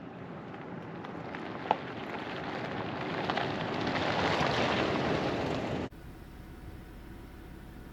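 Dense, continuous din of a large flock of birds, growing louder over several seconds, with one sharp click just under two seconds in. It drops off abruptly about six seconds in to a quieter steady background.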